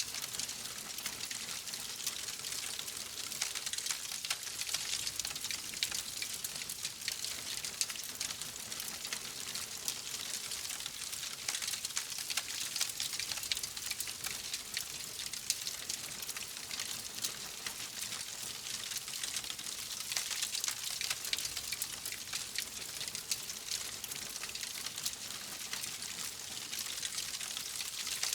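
Wood fire crackling steadily: a dense run of small, sharp crackles and pops over a constant hiss.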